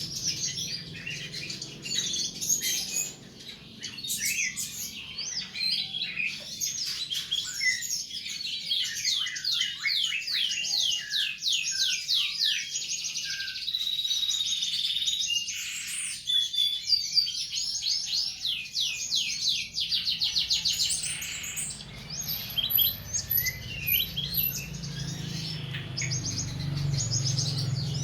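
Songbirds singing a continuous, varied song of fast repeated chirps and rapid trills, over a low steady hum.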